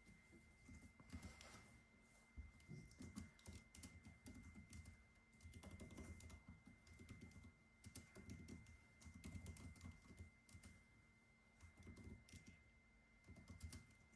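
Faint typing on a computer keyboard: irregular runs of soft key clicks and thuds with brief pauses between them.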